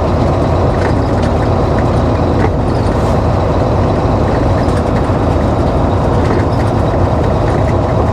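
2007 Volvo semi-truck's diesel engine running steadily with road noise while driving, a constant low drone with no change in pitch.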